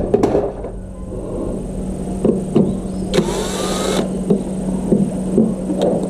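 Small electric motor of a kitchen mixer running with a steady hum, under scattered clicks and knocks. About three seconds in there is a hiss lasting about a second, with a rising whine in it.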